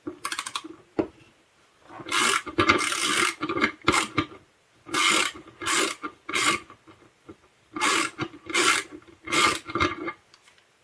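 Hard plastic parts of a 3M H180 tape gun scraping and rubbing in a run of short strokes as the dispenser is worked apart by hand.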